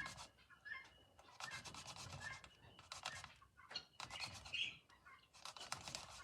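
Thick white thread being rubbed through a brown ink pad to colour and grunge it: a series of scratchy rubbing strokes, about one a second.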